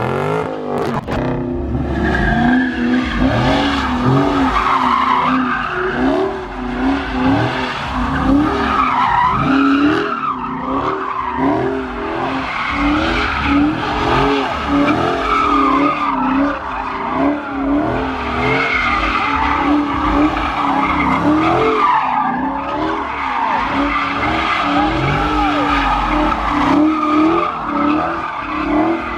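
A car's engine revving up and down again and again while its tires squeal as it slides through donuts.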